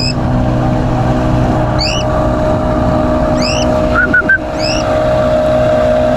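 A steady motor-like hum runs under short rising cockatiel chirps that repeat about every one and a half seconds. About four seconds in there are three quick, clear whistled notes.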